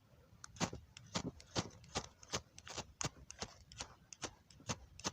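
Striker scraped again and again down a fire steel (ferro rod), short sharp rasping strokes at about two to three a second.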